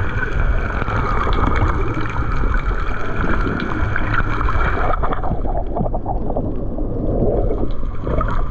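Water sloshing and gurgling around the microphone with a steady low rumble, turning muffled about five seconds in.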